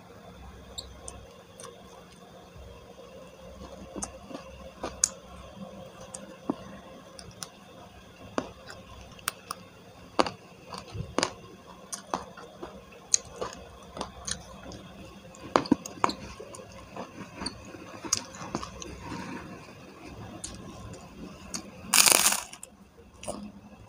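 Close-miked chewing of crispy smashed fried chicken (ayam geprek), with many sharp, scattered mouth clicks and small crunches. About 22 seconds in, a loud crunch as a round white cracker is bitten.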